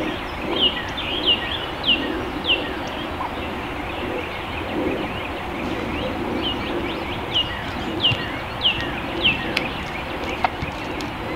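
A songbird singing two phrases of repeated, sharply falling whistled notes, about five or six notes each, over a steady outdoor background.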